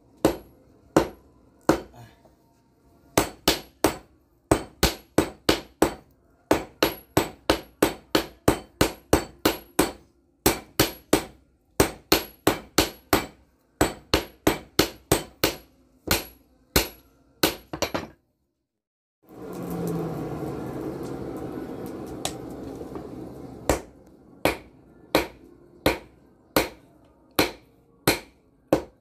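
Hammer blows on bearing steel over an anvil, forging a knife blade, at about two ringing strikes a second in runs. About two-thirds of the way through the blows stop for a steady rushing noise of about four seconds, then the hammering starts again.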